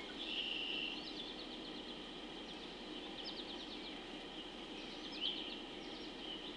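Songbirds singing: short phrases of quick repeated high notes every couple of seconds, with a buzzy call near the start, over a steady low background rumble.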